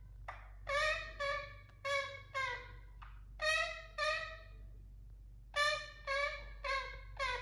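Indian ringneck parakeet, while asleep, giving a series of short, strongly pitched calls in runs of two to four notes with short pauses between runs, each note dipping slightly in pitch at its end.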